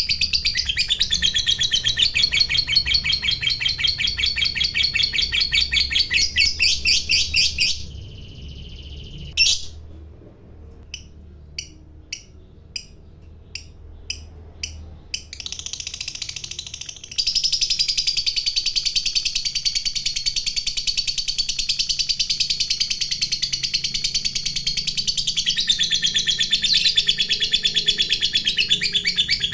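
Lovebird's long, rapid chattering trill ('ngekek panjang'), a fast string of shrill repeated notes. It breaks off after several seconds, leaving a few single sharp chirps about half a second apart, then starts up again a little past halfway and runs on unbroken.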